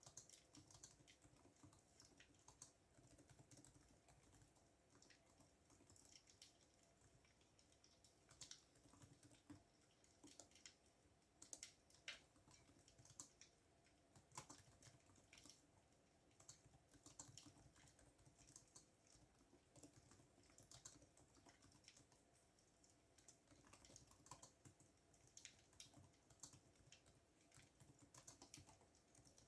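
Faint computer keyboard typing: a continuous, irregular run of soft key clicks.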